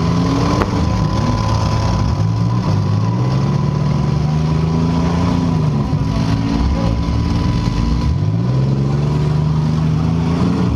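Compact demolition-derby car engines revving, their pitch climbing and falling again and again: a rise about two seconds in that holds and then drops, and another climb near the end, over a steady high whine.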